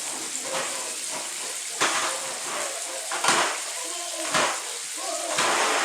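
Chicken frying in hot grease in a pan, a steady sizzle as the meat sears, broken by four sharper, louder sounds about a second apart.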